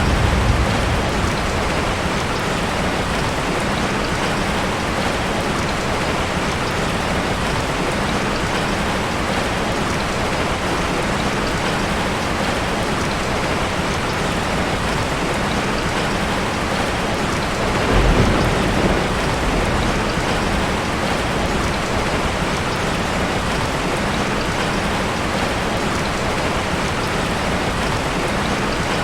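Heavy rain drumming steadily on a tin roof, with the end of a thunder rumble fading in the first second and a short roll of thunder about two-thirds of the way through.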